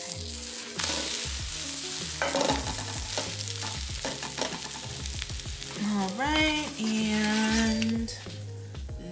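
Thai-style egg omelet sizzling as it fries in a nonstick pan, with a spatula scraping under it and lifting it. Background music plays underneath.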